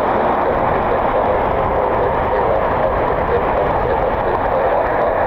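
Steady loud noise of a jet airliner's engines running, with wind buffeting the microphone and a low rumble.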